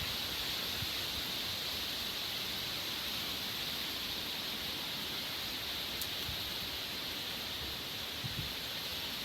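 Steady hiss of hurricane rain and wind, Hurricane Beryl's outer bands, with no break or change.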